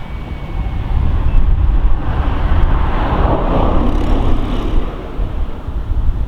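Wind buffeting the microphone, with a rushing noise that swells to a peak about three to four seconds in and then fades.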